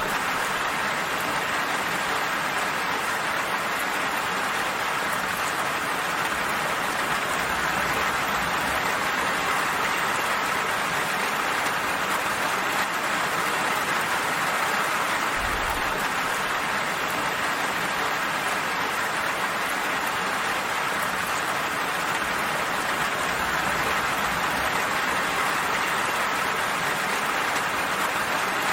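Steady rain falling, an even hiss of drops with no distinct single drips or thunder.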